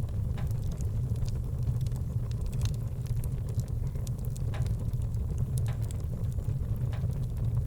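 Wood fire burning in a fireplace: logs crackling with scattered sharp pops, several a second, over a steady low rumble.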